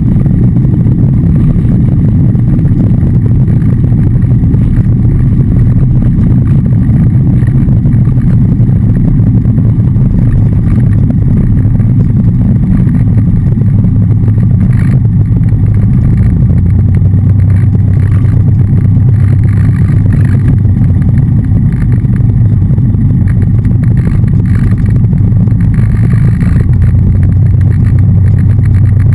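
Loud, steady drone of a Cessna 177RG Cardinal's engine and propeller heard inside the cockpit, its low hum dropping slightly in pitch a little over halfway through.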